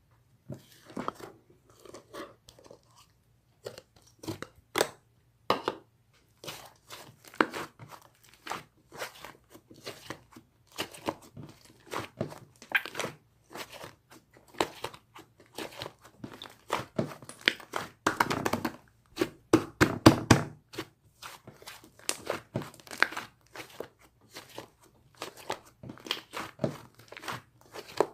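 Slime being squeezed and kneaded by hand, making irregular crackling and popping clicks, densest and loudest about two-thirds of the way through.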